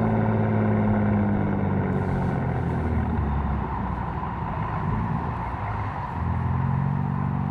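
A catless BMW M4's twin-turbo inline-six running under way. Its note falls over the first few seconds as the car slows, then picks up again about six seconds in.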